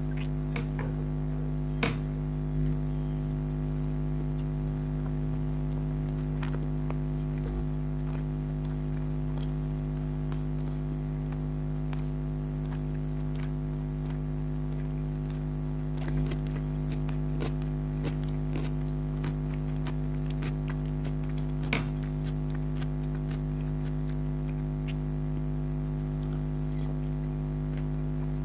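Close-up eating sounds: scattered small wet clicks and smacks of chewing, a few sharper ones about two seconds in and again about two-thirds through, over a steady low electrical hum.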